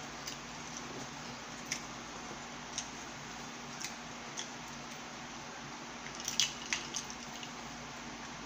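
Close-miked chewing of bread, with scattered wet mouth clicks over a steady background hiss, and a short cluster of louder clicks a little past the middle.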